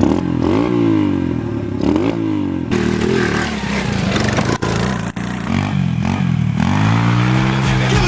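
125cc single-cylinder four-stroke pit bike engine revving, its pitch rising and falling several times in quick succession, then climbing and holding a higher steady pitch near the end.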